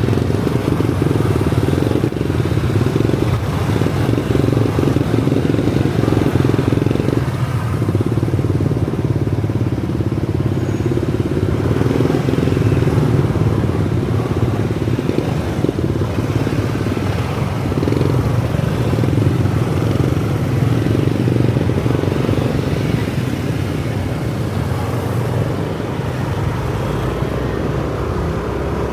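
Kawasaki ZX-4RR's inline-four engine running steadily while ridden through city traffic, with no sharp revs.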